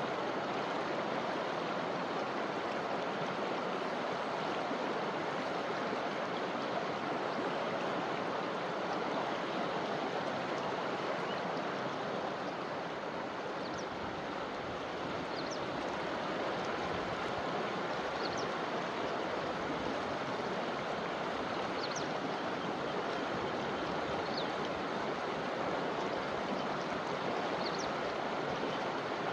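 A forest river flowing in a steady, even rush of water, with a few faint, short high-pitched chirps every few seconds in the second half.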